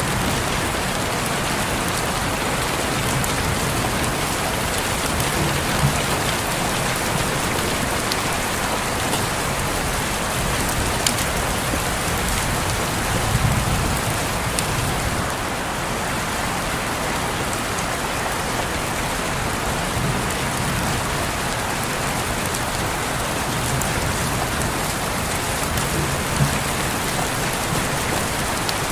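Steady rain falling on a window pane: an even hiss with a few sharper drop taps and a soft low rumble around the middle.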